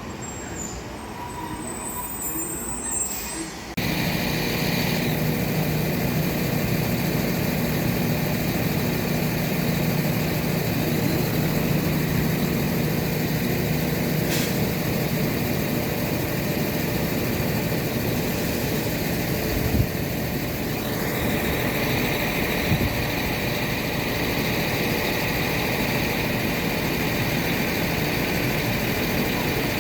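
A train's engine running steadily with a low hum and a high whine, which starts abruptly about four seconds in after a quieter stretch.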